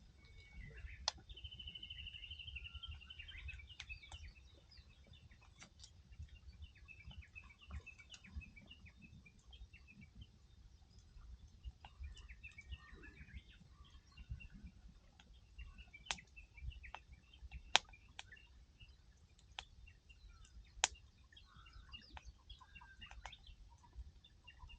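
Wood campfire crackling, with sharp pops every few seconds, the two loudest late on. Small birds chirp throughout, with a short trill near the start.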